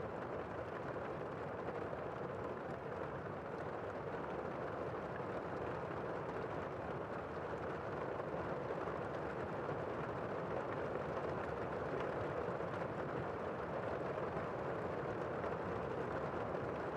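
Steady rain, an even rushing hiss with no single sounds standing out, growing a little louder about halfway through.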